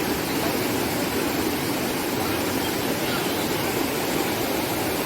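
Water rushing steadily over a small river waterfall.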